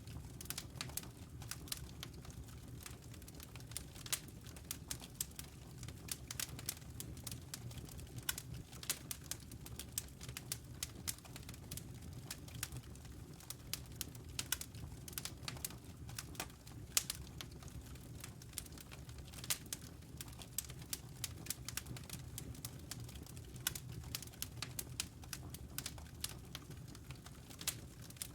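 Wood fire crackling in a fireplace: irregular sharp pops and snaps, several a second, over a steady low rumble of burning logs.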